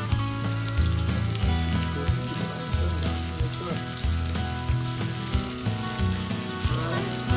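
Steak sizzling in a campfire pan, with background music and a repeating bass line playing over it.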